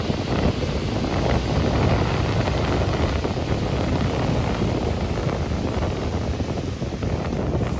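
Heavy diesel earthmoving machinery running steadily, a low rumble with wind buffeting the microphone.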